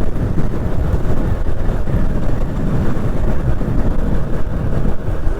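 Motorcycle on the move, heard from a camera on the bike or rider: a steady, loud rumble of engine, road and wind noise with no clear rise or fall.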